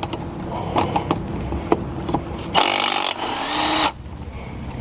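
Cordless impact wrench running in a loud burst of a little over a second, starting about two and a half seconds in with a brief break partway through, among a few sharp metallic clicks.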